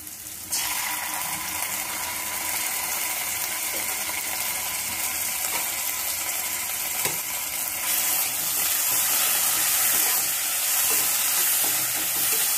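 Ginger-garlic paste and sliced onions sizzling in hot oil in a kadai, a steady hiss that starts suddenly about half a second in and grows louder about eight seconds in, with a few light knocks of the stirring spoon.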